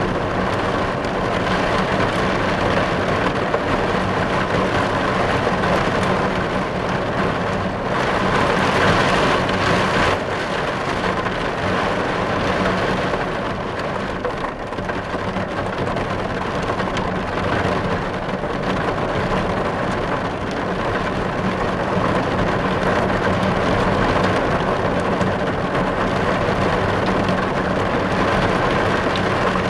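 Heavy rain drumming steadily on a car's windows and roof, heard from inside the car, with a brief swell about a third of the way through.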